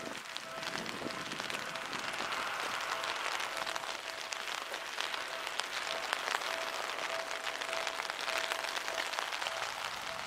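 Steady hiss of rain falling, with many small drop ticks. A faint steady tone cuts in and out through it.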